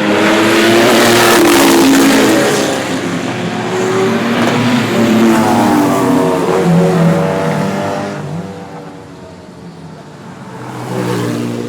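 Sports car engine accelerating hard past, its revs climbing and dropping through gear changes. It is loud for the first eight seconds, then fades, and another engine's revs rise near the end.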